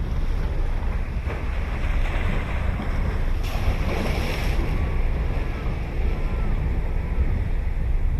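Ocean surf breaking and washing up the beach, with a brighter surge of wash a little over three seconds in, over a heavy low rumble of wind on the microphone.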